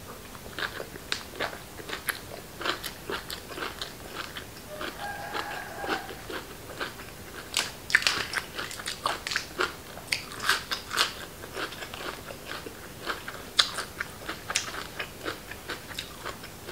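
Close-miked chewing: irregular crisp crunches and wet mouth clicks as crunchy raw vegetables are bitten and chewed along with the raw beef and liver.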